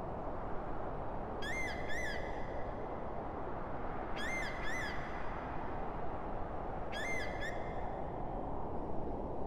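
A bird calling three times, about every three seconds, each call two short notes that rise and fall quickly in pitch, over a steady low rushing background.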